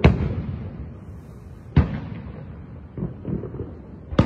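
Aerial fireworks shells bursting: a sharp boom at the start, another about two seconds in, two smaller bangs around three seconds, and another boom near the end, each trailing off in a rumbling echo.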